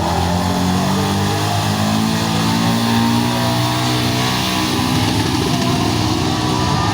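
Pulling truck's engine running hard under load at high, fairly steady revs.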